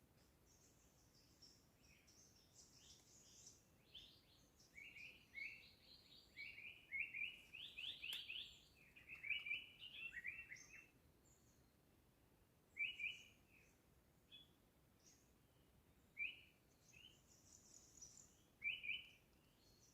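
Songbirds singing and calling in a forest: short, high chirps and trills from several birds overlap in a busy run through the first half, then come as spaced single calls.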